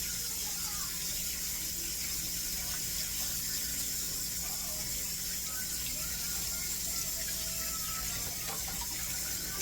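Kitchen sink tap running steadily while hands are washed under it.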